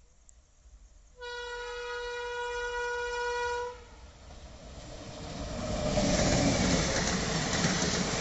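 WAP7 electric locomotive sounding its horn in one steady blast of about two and a half seconds. Then the rumble of the train's wheels on the rails builds and grows loud as the locomotive and its coaches pass.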